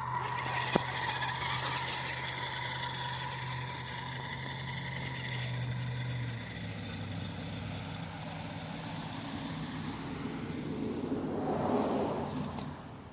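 Motor of an Axial SCX10 II RC crawler tow truck running: a steady mechanical hum with a high whine, which drops in pitch about six seconds in. About eleven seconds in a louder, rougher burst of noise builds and then cuts off just before the end.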